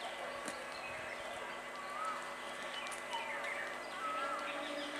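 Small birds chirping in short, scattered calls over a quiet steady background with faint hum.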